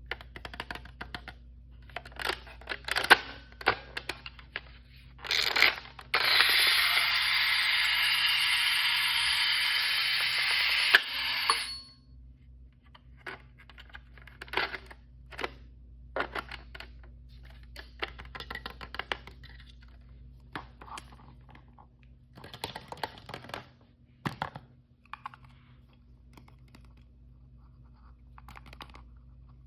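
Toy packaging being unwrapped and handled: scattered clicks, crinkles and small taps. About six seconds in, a loud steady hiss starts; it lasts about six seconds and stops abruptly.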